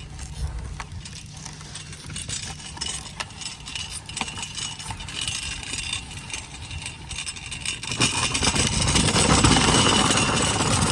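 Small engine idling with a steady low hum and light rattling clicks; about 8 seconds in, a louder rushing noise builds up over it.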